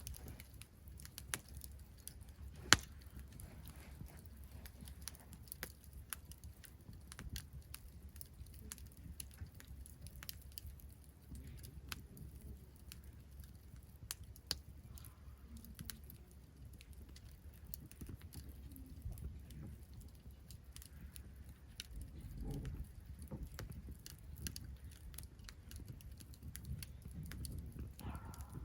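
Wood campfire crackling, with frequent small irregular pops and one loud snap about three seconds in, over a low steady rumble.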